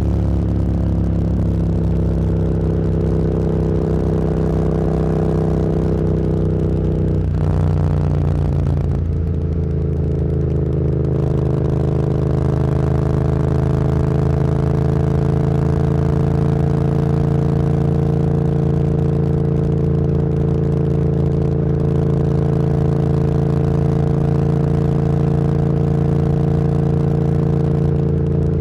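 Motorcycle engine running under way, heard from the rider's position. About seven seconds in there is a gear change, after which the engine note settles at a lower pitch and holds steady.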